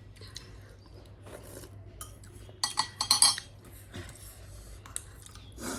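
A metal spoon clinking and scraping against a dish while eating, with a quick cluster of sharp ringing clinks about three seconds in.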